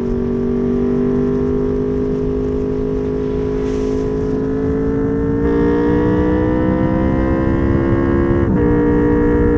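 Honda VFR800's V4 engine through a custom exhaust, pulling steadily with its pitch slowly rising. It gets louder about five and a half seconds in, then drops in pitch abruptly about eight and a half seconds in, as in a gear change, and carries on at the lower pitch.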